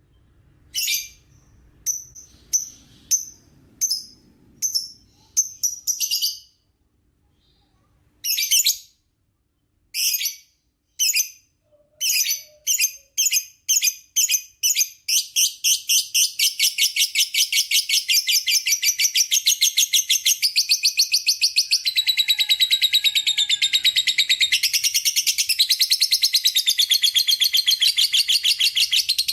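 Lovebird giving shrill, high chirps, spaced out at first and then quickening until, about halfway in, they run together into one long, rapid chattering trill (the 'ngekek panjang').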